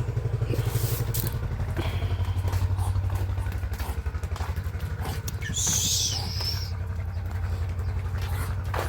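A small engine running steadily at idle, a low, evenly pulsing hum, with a brief high-pitched call or squeak about six seconds in.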